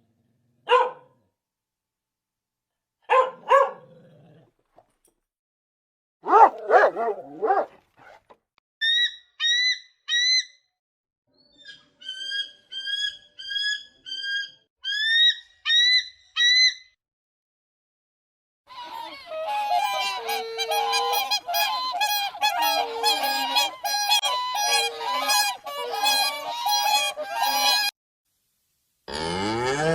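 Birds honking: a run of separate short calls, then many birds honking together for about nine seconds.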